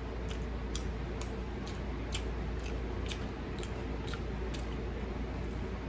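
Close-up chewing of fried frog legs with hot sauce: a steady run of crisp little crunches, about two a second, over a low hum.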